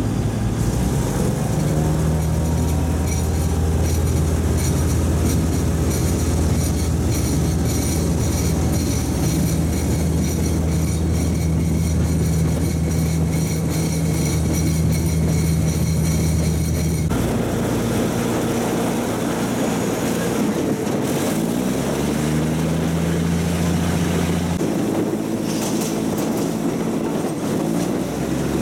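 Diesel railcar running along the track, heard from an open window: a steady low engine drone with wheel and rail noise. About 17 seconds in the sound changes abruptly, and a little later the engine note rises as the train picks up speed.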